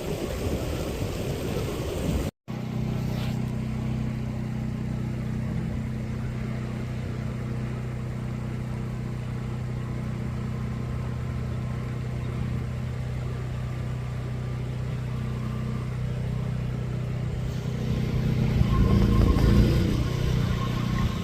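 A steady engine hum, growing louder about eighteen seconds in. The first two seconds hold a rough noise that cuts out briefly.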